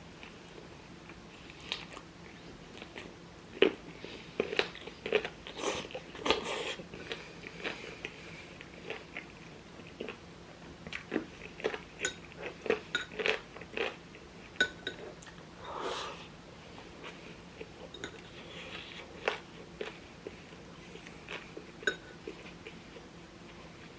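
Close-miked eating: irregular bites and chewing with small crunches, a cluster of them a few seconds in and another around the middle.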